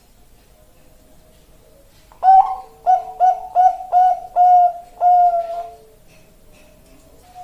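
Zebra dove (perkutut) cooing: a soft coo, then about two seconds in a run of about seven quick, loud coo notes lasting some three and a half seconds, trailing off into softer coos.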